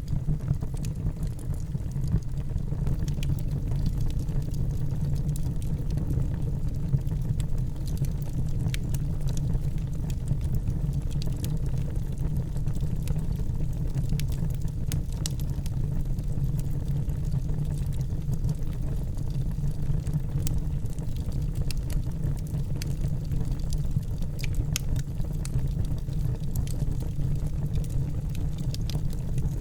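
Wood fire burning in a fireplace: a steady low rumble of the flames with many small, sharp crackles scattered through it.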